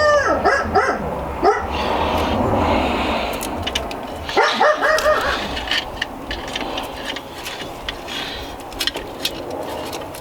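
A dog barks in short pitched calls, once right at the start and again about four and a half seconds in. Light clicks follow in the second half.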